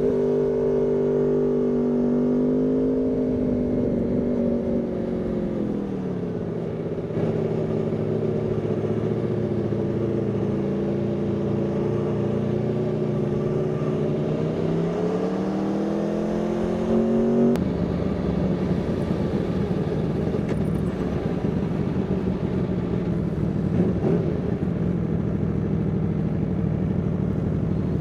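Aprilia Tuono V4 motorcycle's V4 engine running: engine speed falls over the first few seconds, holds steady, then climbs again, and about two-thirds of the way through the sound switches abruptly to a steady, lower note.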